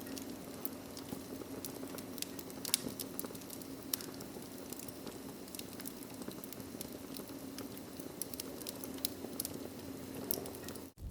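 Wood fire crackling, with irregular sharp pops and snaps over a steady low hiss; the sound drops out abruptly just before the end.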